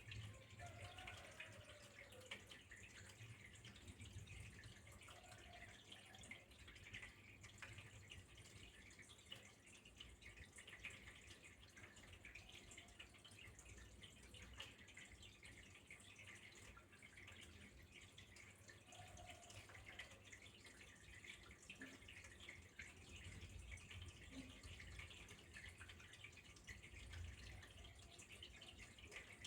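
Faint, steady trickle of flowing water with fine dripping and splashing.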